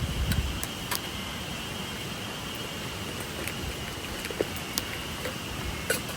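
Steady rushing of a flowing stream, with scattered small sharp clicks and a couple of low knocks near the start.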